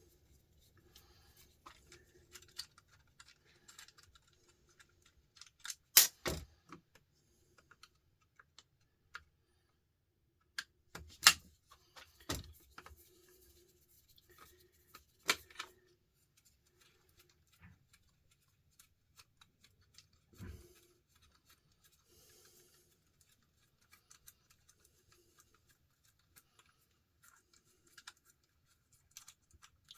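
Hand-dismantling a small appliance with a Phillips screwdriver: scattered light clicks and rattles of the tool and loose metal and plastic parts, with a handful of sharper knocks, the loudest about 6 and 11 seconds in.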